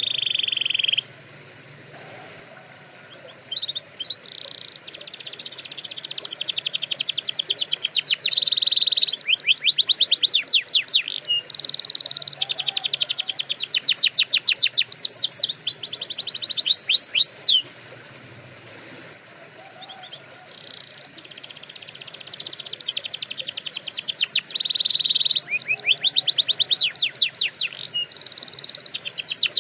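Domestic canary singing: long rolling trills of rapid, evenly repeated high notes, one run after another, with two quieter pauses of a few seconds, one about a second in and one about two-thirds through.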